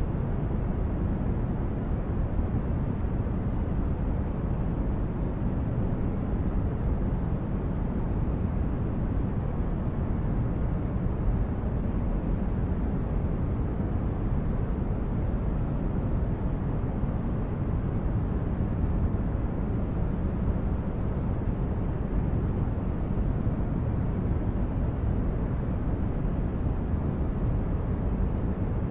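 Synthetic spaceship-interior ambience: a steady, deep, brown-noise-like rumble of the kind used for a starship's engine hum. It is even throughout, with no tones or events.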